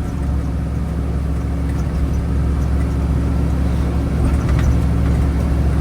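Vehicle engine running steadily under way, a low even drone that gets slightly louder after about a second.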